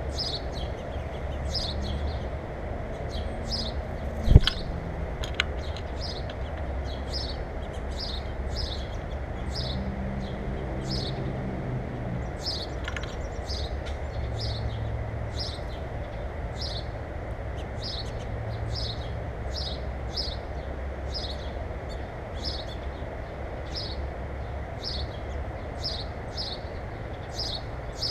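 A small bird calling over and over, short high chirps that drop in pitch, about one and a half a second, with a steady low rumble underneath. A single sharp knock about four seconds in.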